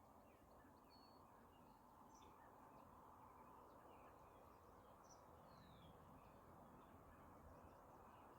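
Faint outdoor ambience: scattered short bird chirps and a few brief whistled calls over a steady low hiss.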